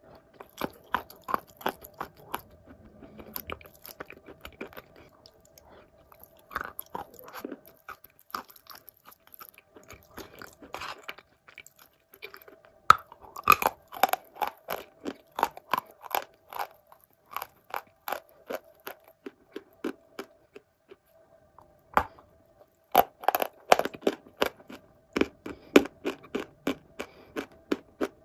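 Close-up chewing of wet blue Uzbek clay: soft crunching bites and chews in a quick run of crisp clicks, thicker in two spells midway and near the end, over a faint steady hum.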